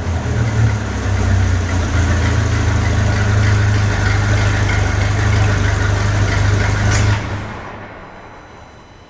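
Ferrari 458 Speciale's 4.5-litre V8 through an Fi valvetronic exhaust, idling steadily with a deep, even note, then fading away about seven seconds in.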